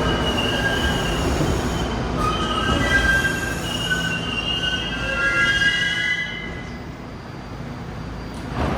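New York City subway train's steel wheels squealing on the rails in several high, overlapping tones over a low rumble. The squealing and rumble die down about two-thirds of the way through, and a short knock comes near the end.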